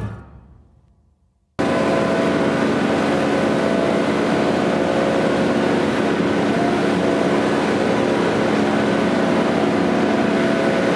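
The last note of the music fades into a brief silence. Then, about a second and a half in, a machine's engine cuts in suddenly and runs steadily, a dense hum with several steady tones.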